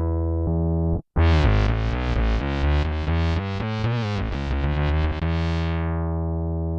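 Electric bass played through an MXR MB301 Bass Synth pedal, giving a synthesizer tone. A held note cuts off about a second in, followed by a run of quickly changing notes, each opening bright and closing again. The run ends on a long held note that grows darker as it sustains.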